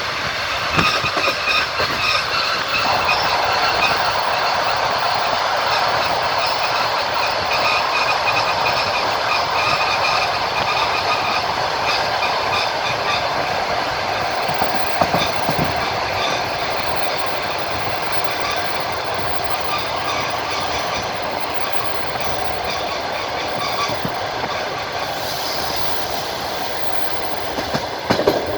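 Passenger train wheels running over the rails, heard from inside the carriage: a steady rolling rumble with the clatter of the wheels over the rail joints and a few sharper knocks. High, steady squealing tones from the wheels sound through much of the first half, then fade.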